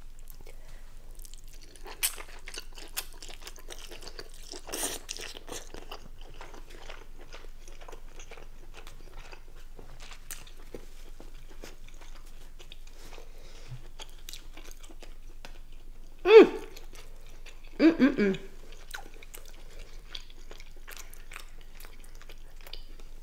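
Close-miked eating sounds: wet chewing and lip smacks of sauce-soaked king crab meat, a steady patter of small clicks. Two short vocal sounds from the eater come about two-thirds of the way through and are the loudest moments.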